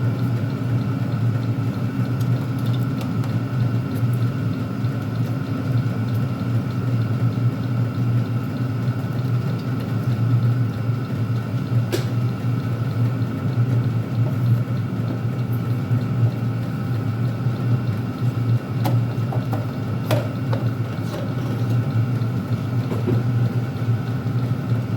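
Chinese diesel air heater running with a steady blower hum, with a sharp click about halfway through and another a little later.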